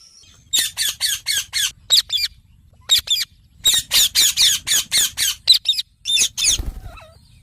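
Indian ringneck parakeet calling: quick runs of short, high-pitched squawking notes, several to a run, repeated in bursts with short pauses between.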